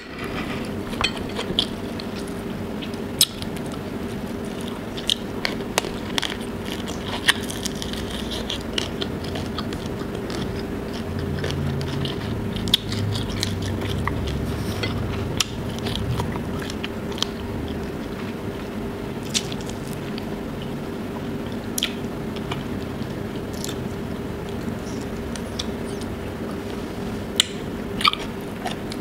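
Close-miked chewing and mouth sounds of someone eating tiger prawns with rice by hand, with scattered sharp clicks and smacks. A steady low hum runs underneath.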